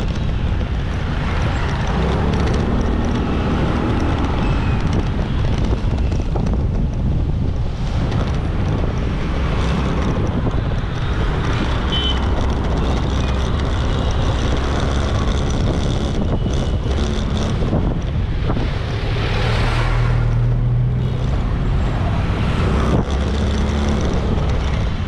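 Riding a motorbike through traffic: the engine runs steadily under heavy wind rush on the microphone, with passing vehicles in the background.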